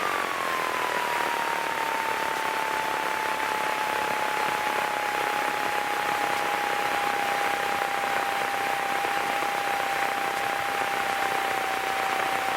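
Piper PA-28 Cherokee cockpit noise, heard through the intercom: a steady hiss with a single engine tone that falls in pitch over the first couple of seconds and then holds steady.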